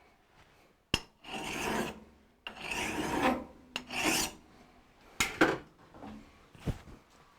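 Rasping hand strokes worked over a freshly machined metal lathe knob: three strokes of about a second each in the first half, then a few sharp clicks and knocks.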